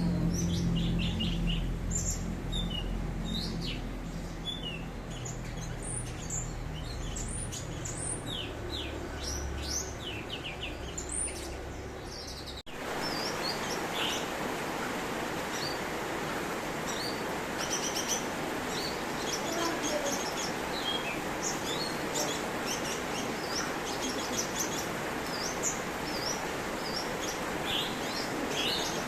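Songbirds chirping and singing in quick, high, short notes, many of them falling sweeps, over a low rumble. About 13 seconds in, the recording cuts abruptly to another take with a hissier background and denser high chirping.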